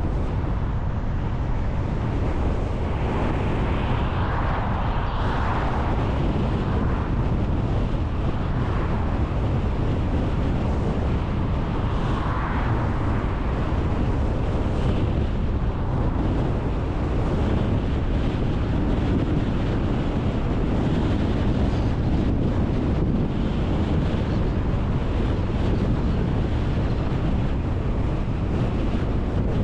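Steady road noise from a moving car, with wind buffeting the microphone on a windy day. A few brief swells of noise come through, around four to six seconds in and again near twelve seconds.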